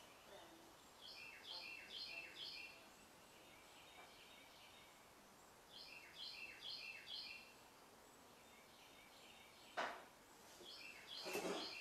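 Faint bird calls: a phrase of four quick two-pitched notes, repeated three times about five seconds apart. A sharp click comes just before ten seconds in, with a short noisy rustle about a second later.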